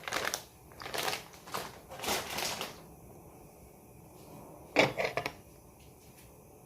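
Kitchen handling noises: a run of short knocks and clatters over the first three seconds, then a brief cluster of clatters about five seconds in.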